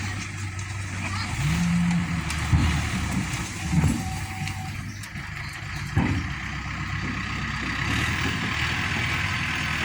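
Heavy diesel engine of a JCB or tractor running steadily, rising briefly in pitch a couple of times, with a few sharp knocks, the loudest about six seconds in.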